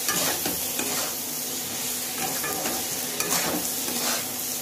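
Soya chunks and green chillies sizzling in hot oil in a kadai, stirred with a spatula that scrapes and knocks against the pan several times.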